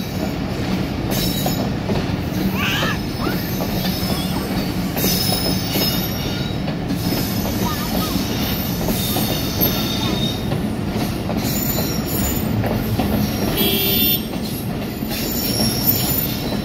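Pakistan Railways passenger coaches rolling past on an arriving train: a steady rumble and clatter of wheels on the rails, with short high-pitched squeals from the running gear several times.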